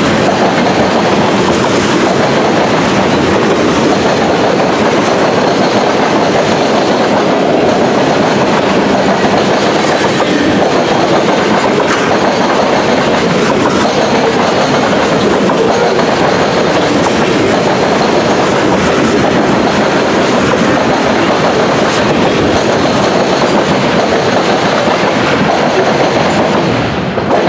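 Freight cars of a mixed freight train (grain hoppers, tank cars and boxcars) rolling past close by, a loud, steady noise of steel wheels running on the rails. It falls away near the end as the last car passes.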